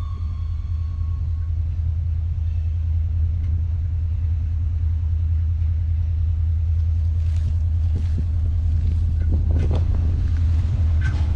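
Approaching train: a steady low rumble that slowly grows louder, with sharp clacks of the wheels on the rails starting about seven seconds in and coming more often near the end.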